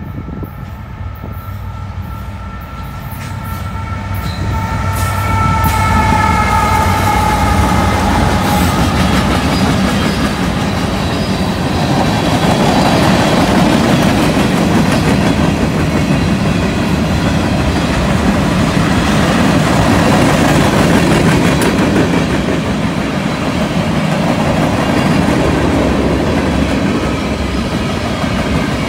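Diesel-hauled freight train passing close by. The lead locomotive's horn sounds a chord through the first several seconds and slides down in pitch as it goes by. Then the locomotives' engines and a long string of hopper and tank cars roll past, with steady wheel clatter.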